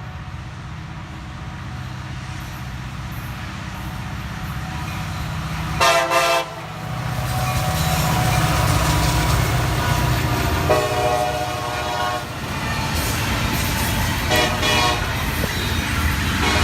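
Approaching freight train's diesel locomotive, its engine rumble growing louder, sounding its multi-tone air horn in a series of blasts: a short one about six seconds in, a longer one around eleven seconds, another short one near fourteen seconds, and a fourth starting just at the end.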